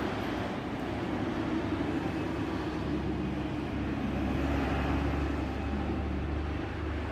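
A heavy vehicle driving past, its engine drone growing louder from about three seconds in, loudest around five seconds, then easing off.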